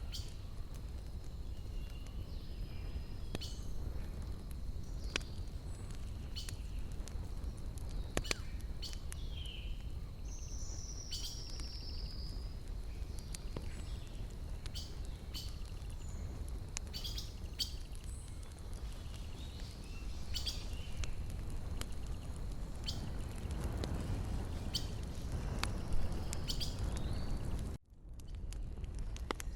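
Wood fire crackling with scattered sharp pops over a low, steady rush, with birds chirping now and then. The sound briefly cuts out near the end.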